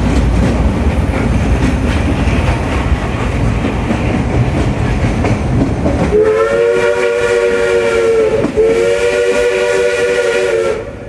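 Steam locomotive running with a low rumble, then its chime whistle sounds two long blasts, starting about six seconds in, each a chord of several tones.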